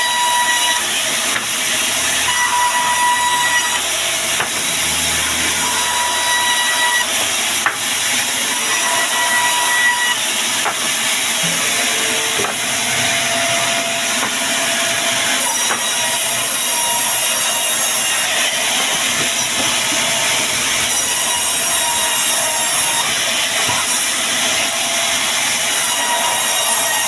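Band sawmill cutting through wood: a loud, steady hissing rush from the blade in the cut. A thin whistling tone comes and goes several times in the first ten seconds or so.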